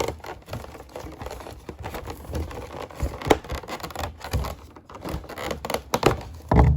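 Hands pulling the clear plastic cover off a packaged figure: irregular crinkling, clicks and scrapes of handled plastic, with a louder low thump near the end.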